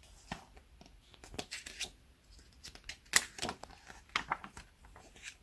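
Paper rustling and crinkling in a run of short, irregular crackles: the pages of a picture book being handled and turned.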